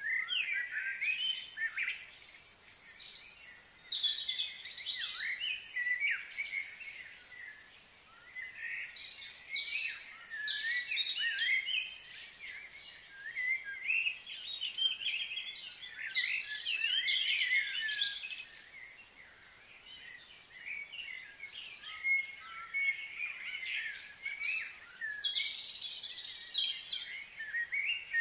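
Several birds chirping and calling in repeated bouts of quick, gliding chirps.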